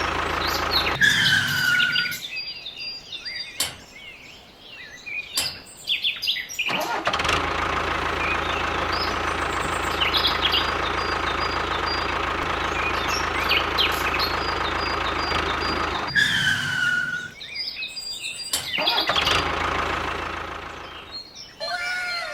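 A small engine, most likely the miniature diesel-style water pump engine, runs steadily at the start and again for about nine seconds in the middle. Birds chirp in the quieter stretches between.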